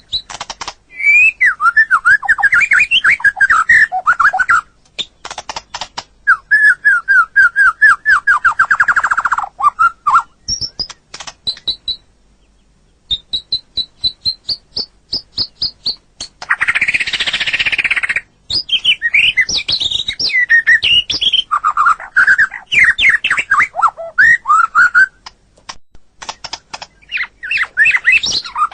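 White-rumped shama (murai batu) singing a loud, varied song of whistled phrases, quick trills and runs of rising notes, broken by brief pauses. About halfway through there is a harsh, raspy burst.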